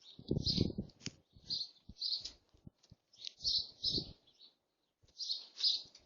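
Small songbirds chirping, a quick run of short high calls repeated throughout, with a few low thumps and rustles in between.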